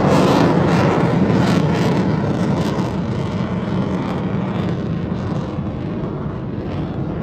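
Military aircraft flying past overhead. Its engine noise is loudest at the start and fades gradually as it moves away.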